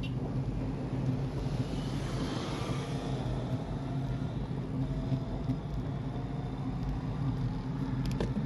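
Wind rushing over the microphone and tyre noise from a bicycle moving at race speed, with a steady low hum underneath; the hiss swells briefly about two seconds in.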